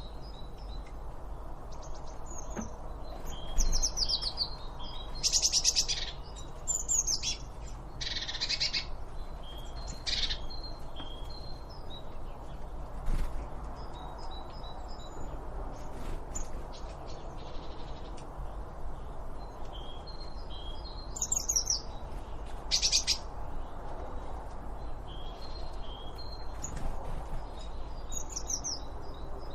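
Several birds calling and singing: short repeated high chirps and fast trilled phrases that sweep downward, with the loudest bursts about a third of the way in and again past the middle. A steady low background noise runs underneath.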